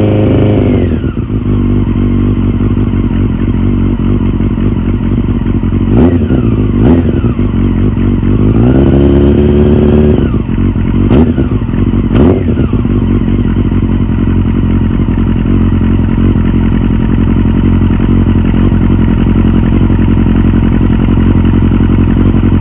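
1997 Honda CBR600F's inline four-cylinder engine running after a cold start. About a second in the revs drop from a fast idle. Between about six and twelve seconds in the throttle is blipped several times, the middle rev held for a couple of seconds, and then the engine settles into a steady idle.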